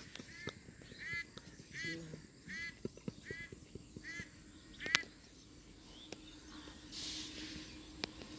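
A bird calling seven times, one short call about every 0.7 seconds, stopping about five seconds in. A faint steady hum follows.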